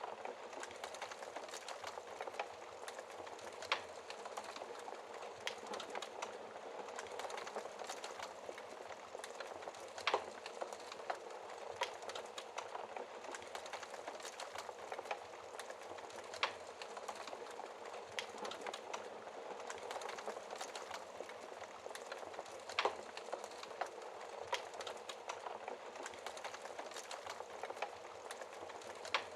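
Wood fire crackling with a steady soft hiss, dotted with many small snaps and a few louder pops spaced several seconds apart.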